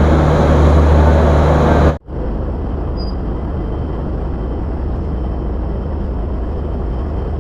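Railway locomotive engine running close by with a loud, deep, steady drone, cut off abruptly about two seconds in; after that comes a quieter steady rumble and hiss.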